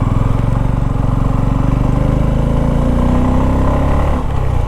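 Motorcycle engine running under load, its revs climbing through the middle and dropping briefly near the end.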